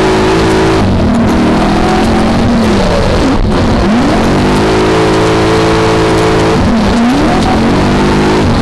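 V8 engine of a BMW E30 drift car revving hard under load, heard from the onboard camera. The revs hold high, then dip sharply and climb back twice, about three and a half and seven seconds in.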